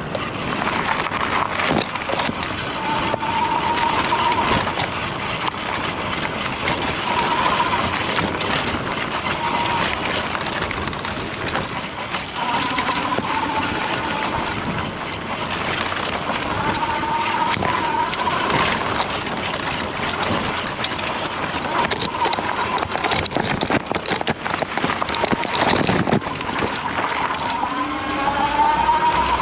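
Coswheel GT20 electric bike riding, with a steady rush of wind noise and a faint electric motor whine that comes and goes and wavers up and down in pitch with speed, plus occasional short knocks and bumps.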